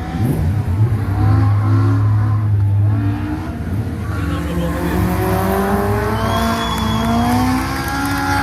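Datsun 1200 rally car with a Honda F20C four-cylinder engine, swapped in from an S2000, running hard at high revs. The engine note rises and falls as it is revved and shifted, climbing steadily in the second half.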